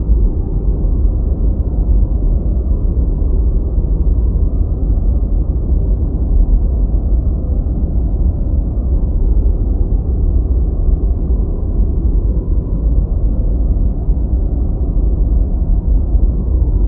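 Deep white noise: a steady, even, low rumbling hiss with no high end, which does not change.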